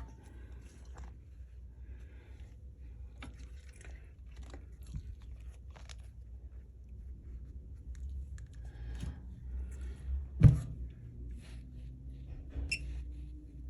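Light clicks and taps from the glass-and-OLED screen assembly being handled and placed into a repair machine, with one loud sharp knock about ten and a half seconds in, over a steady low hum. A short electronic beep comes near the end.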